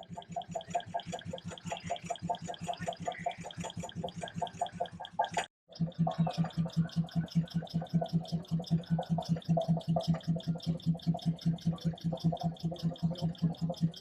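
Vintage stationary engine running with an even, rapid beat. About five and a half seconds in the sound cuts out for a moment, then another engine runs with a louder, deeper beat.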